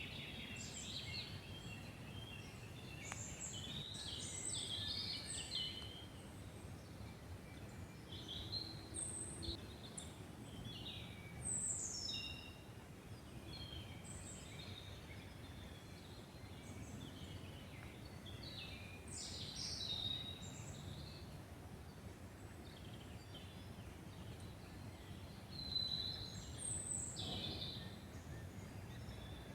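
Forest birdsong: several birds giving short chirps and whistled phrases, scattered throughout, over a steady low background noise.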